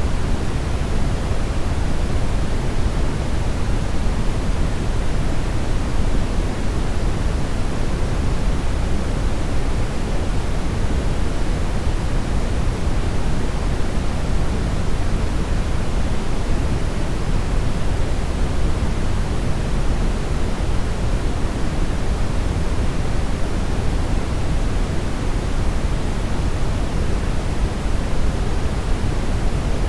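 Steady brown noise: an even, unchanging hiss weighted heavily toward the low end, with a deep rumble and little treble.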